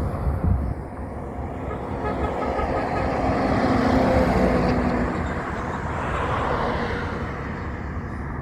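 A truck driving past, its engine note building to a peak about four seconds in and then fading, over steady road rumble.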